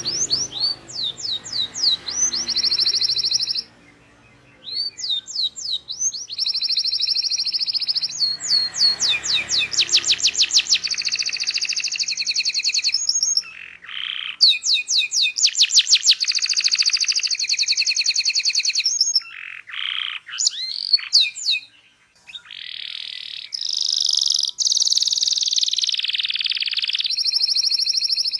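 Domestic canary singing a long rolling song: phrases of fast repeated trilled notes and chirps, broken by a few short pauses.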